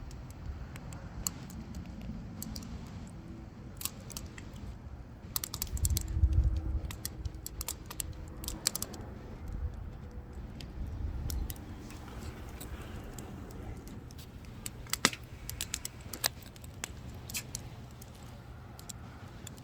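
Wood fire crackling, with irregular sharp pops and snaps over a low rumble that swells briefly about six seconds in and again around ten seconds in.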